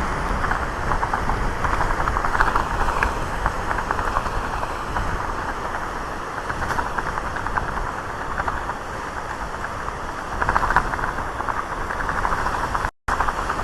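Typhoon wind buffeting a phone's microphone: a loud, crackling rush that swells in gusts. The sound cuts out for a moment near the end.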